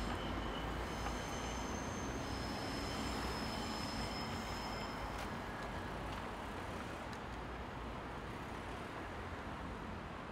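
A railway train running past and fading away steadily. Thin high-pitched wheel squeal sounds over the first few seconds.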